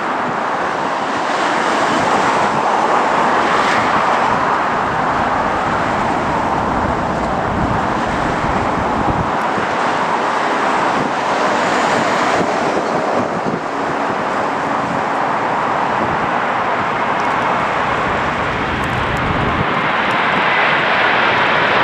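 Jet airliner engines making a steady broad roar that grows a little louder near the end, with gusty wind rumbling on the microphone.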